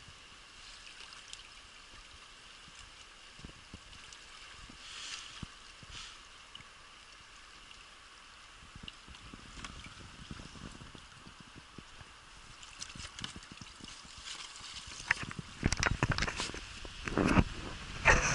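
Steady hiss of rushing river water, with a run of loud knocks and thumps in the last few seconds.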